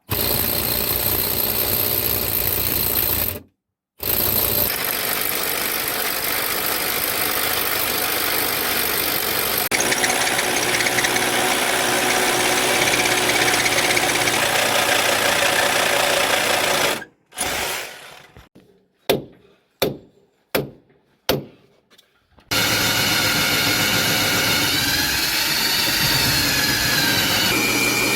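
Loud, steady power-tool noise in several stretches that cut off abruptly, with a run of short bursts in the second half, each starting loud and dying away, before the steady running resumes.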